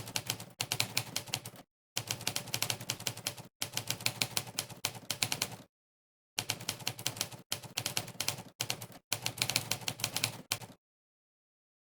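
Monkeytype's simulated typewriter keystroke sound, one sharp click per keypress, in quick runs of fast typing broken by short pauses. The clicking stops about a second before the end.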